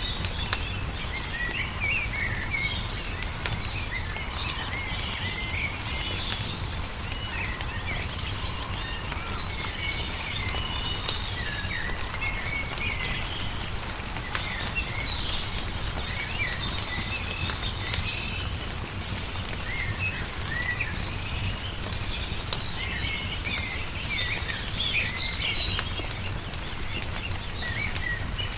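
Small songbirds chirping and twittering continuously over a wood fire's scattered sharp crackles and pops, with a steady low rumble underneath.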